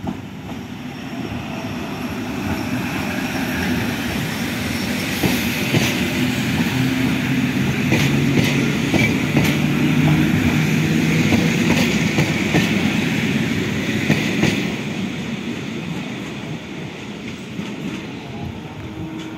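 Regional electric multiple unit passenger train passing across a level crossing. Its wheels clatter over the rail joints in a run of sharp clicks. The noise swells to a peak around the middle and fades as it moves away.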